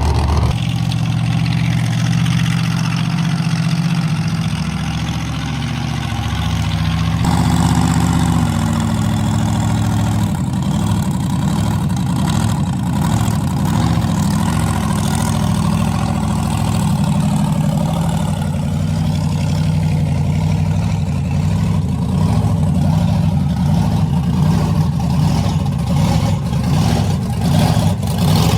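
Large monster truck engine running at low revs, a steady idle, with its sound changing abruptly about seven seconds in.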